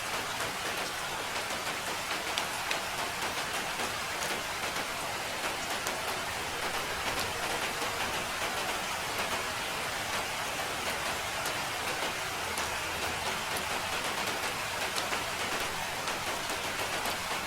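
Steady rain falling, a continuous hiss with the small taps of individual drops scattered through it.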